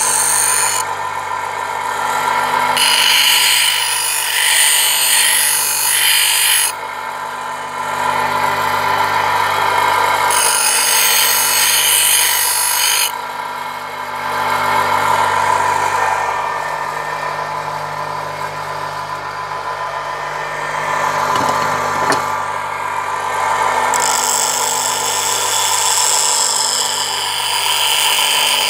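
Bench grinder running with a steady whine while a wood-carving chisel is pressed to the wheel in several spells of grinding hiss, each a few seconds long.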